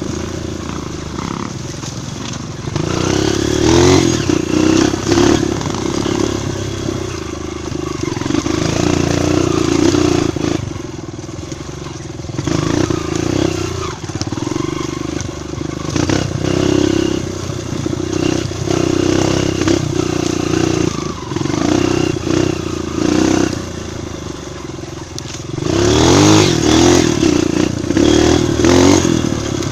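Single-cylinder four-stroke trail motorcycle engine running under load on a dirt trail, its revs rising and falling repeatedly as the rider works the throttle, with a stretch of higher revving near the end.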